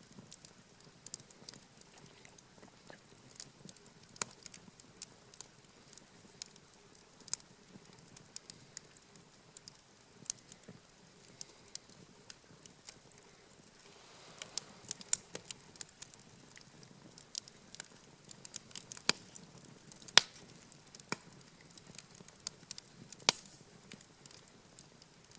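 Wood campfire crackling, with irregular sharp pops throughout; the loudest pop comes about twenty seconds in.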